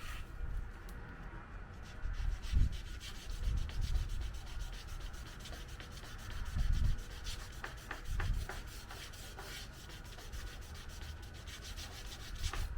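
Sandpaper rubbed back and forth by hand over painted car bodywork in quick, continuous strokes, sanding out runs in the paint. A few dull thumps come through underneath.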